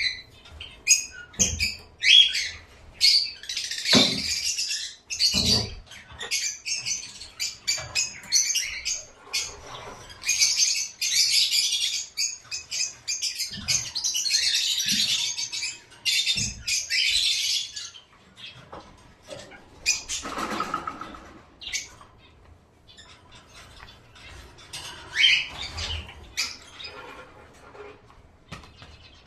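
Small caged pet birds chirping and chattering, with sharp clicks and knocks mixed in. The chatter is densest through the first half, then thins out, with one more short burst a little later.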